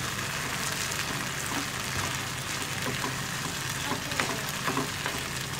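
Chicken 65 sizzling in oil and thick masala gravy in a kadai, with a steady hiss. A spatula stirs and scrapes through it, making small scattered clicks.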